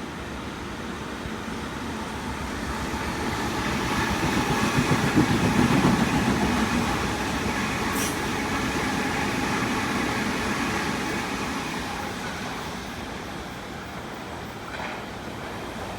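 A train passing: its rumble builds to a peak about five seconds in and then fades away, with a faint steady whine over it.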